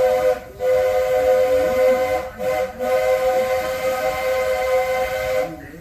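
Steam locomotive chime whistle sounding several notes at once in a long blast. It breaks off briefly about half a second in and twice more around two and a half seconds, then stops near the end. This is the whistle from the Roger E. Broggie engine, now carried by the Walt Disney World Railroad's Roy O. Disney.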